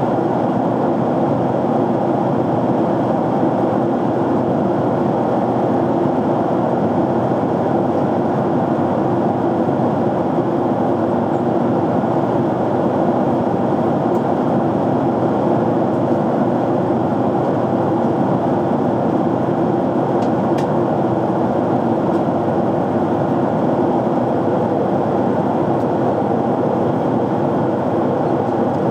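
Steady in-flight cabin noise of a jet airliner: an even hiss and drone of airflow and engines that holds at one level throughout.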